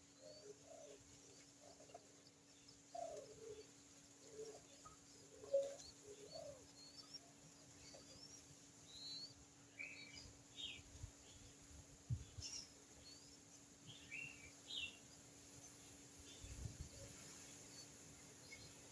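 Wild birds calling faintly: a run of about ten short, low notes over the first six seconds or so, then scattered quick high chirps. A couple of dull low knocks come in the second half.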